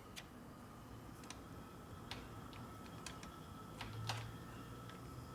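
Faint, scattered light clicks and taps of metal line and tools being handled, about a dozen irregular ticks over a faint steady high whine.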